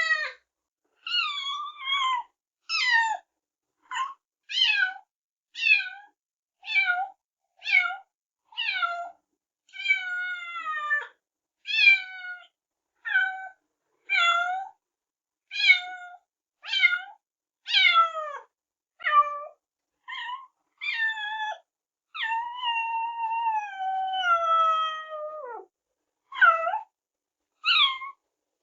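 Kittens meowing: a string of short, high-pitched meows, each falling in pitch, at about one a second. About three-quarters of the way through comes one longer, drawn-out meow that slides down in pitch.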